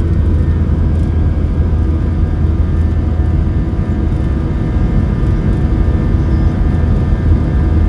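Jet airliner engines running steadily at power: a deep, constant rumble with several steady whining tones above it.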